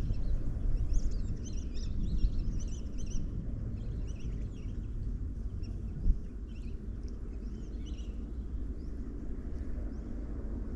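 Birds chirping, many short high calls in quick succession, over a steady low rumble of wind on the microphone, with a single dull thump about six seconds in.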